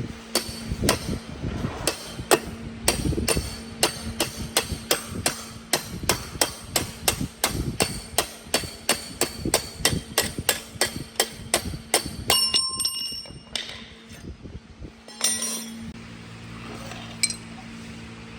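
Steady hammering on metal, about three blows a second, for around twelve seconds. A few ringing metallic clinks follow. A low steady hum runs underneath.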